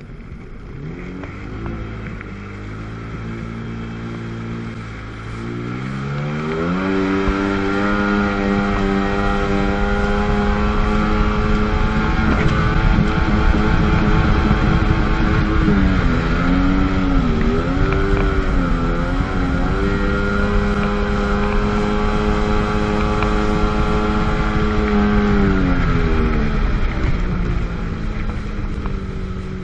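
1997 Sea-Doo GTS jet ski's 720 cc two-stroke twin engine throttled up from low revs to a steady high-rpm run a few seconds in. Its pitch wavers for a few seconds midway, then it eases off near the end.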